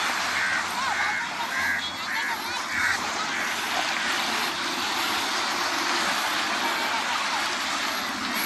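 Steady wash of ocean waves and sea breeze, with a quick run of five short, high-pitched calls in the first three seconds.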